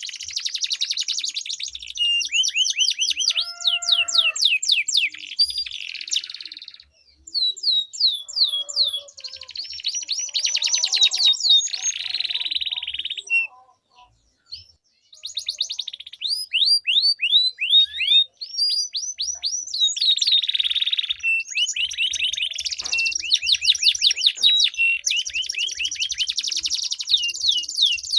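Domestic canaries singing against each other in long rolling trills of fast, repeated sweeping notes, broken by a brief pause about seven seconds in and a short silence around the middle.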